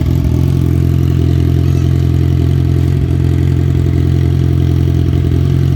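Kawasaki Z1000R's inline-four engine idling steadily and loudly through a gutted stock exhaust pipe with the catalytic converter deleted, already warm.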